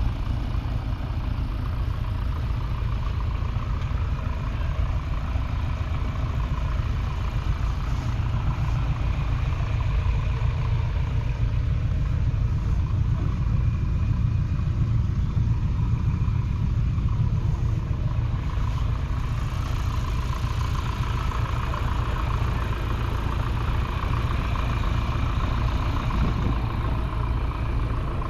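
1977 Massey Ferguson 590 tractor's 4.1-litre four-cylinder diesel engine running steadily at an even speed.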